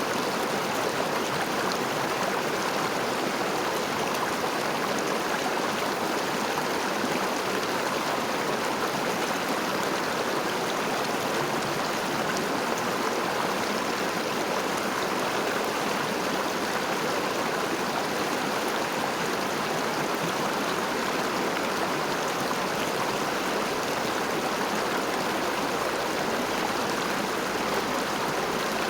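River water flowing and rushing steadily over stones, an even, unbroken burble.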